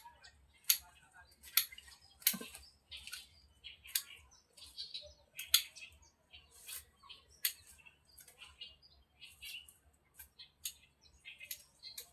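Small birds chirping in short, irregular bursts, mixed with sharp clicks and taps.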